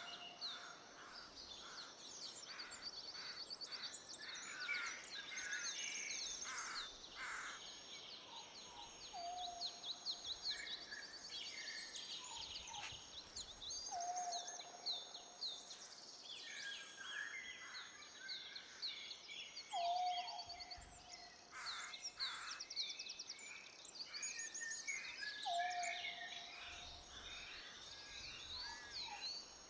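Several songbirds chirping and trilling over one another without a break, with a lower, short held note repeating about every five seconds.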